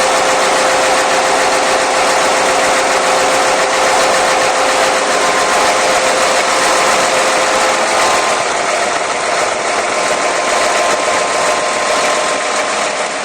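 Diesel engine of the SNCF BB 68540 locomotive running hard at high revs, loud and steady; its tone changes and the level eases slightly about eight seconds in.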